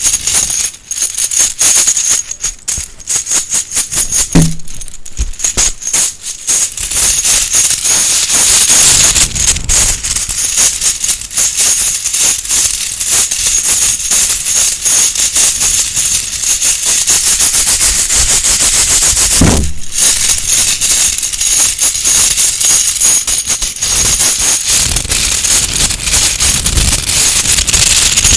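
Close-miked rustling, crinkling and rattling of a bag and its contents being handled: a dense, continuous stream of small clicks and crackles, patchier for the first few seconds and then steady and loud.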